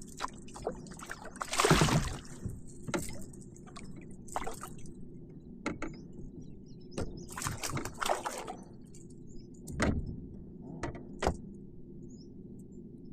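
Water splashing and dripping in irregular bursts at a kayak, the loudest about two seconds in, over a steady low background noise.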